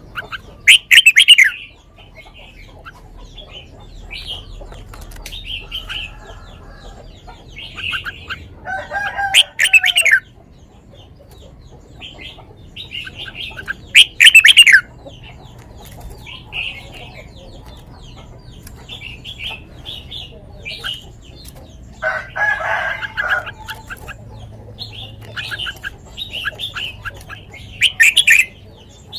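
Red-whiskered bulbul singing a run of short, sweet whistled phrases again and again. A rooster crows twice in the background, about a third of the way in and again after two thirds.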